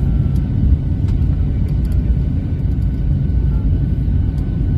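Steady low rumble inside the cabin of a Boeing jet airliner, with a few faint clicks.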